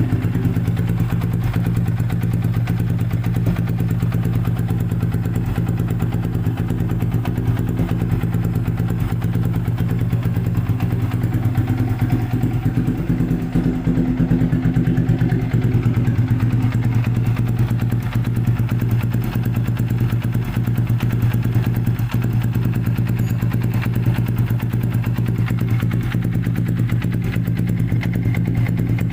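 Motorcycle engine idling steadily through an NR24 aftermarket double 'keong' (snail-type) exhaust, a deep, even exhaust note with no revving.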